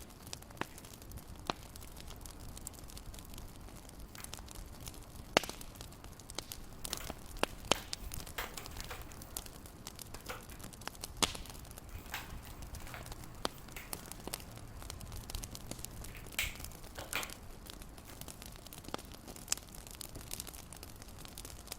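Fireplace crackling: irregular pops and snaps, a few of them louder, over a low steady rumble.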